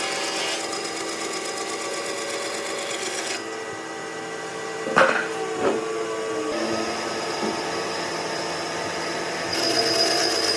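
A power tool running on wood with a steady high whine. It drops out abruptly about a third of the way in. Two sharp knocks come a little under a second apart, then a quieter steady hum, and the louder tool sound returns near the end.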